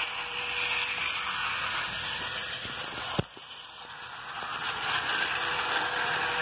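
Tyco HO-scale model train running on its track, its locomotive motors whirring steadily with the rattle of wheels on rail. A single click a little over three seconds in is followed by a brief drop in the sound, which then builds back up.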